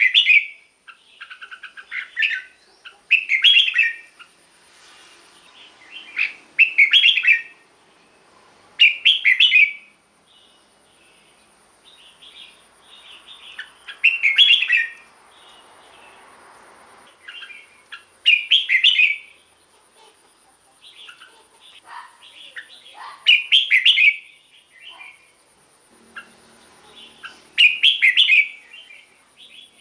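Red-whiskered bulbul singing: short, loud, warbled phrases repeated about every four to five seconds, with softer chirps between them.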